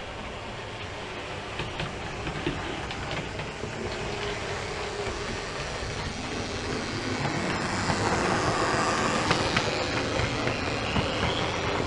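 A train running on track, growing louder as it approaches, with many short clicks from the wheels and a faint whine near the end.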